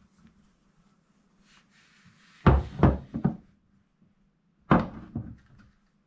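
Knocks from hard objects handled on a workbench: three in quick succession about two and a half seconds in, then two more about two seconds later.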